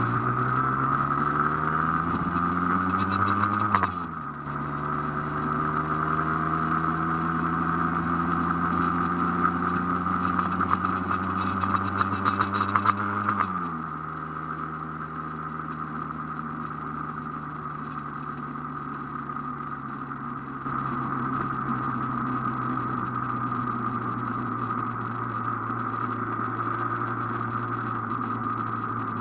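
Aprilia AF1 motorcycle's two-stroke single-cylinder engine accelerating under way: the pitch climbs for about four seconds, drops sharply at a gear change, climbs more slowly again for about ten seconds, then drops and holds fairly steady as the bike cruises.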